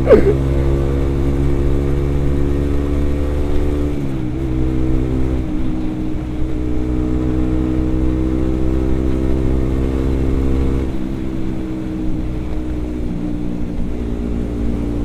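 Motorcycle engine running at steady revs while riding. The engine note shifts about four seconds in and again near eleven seconds.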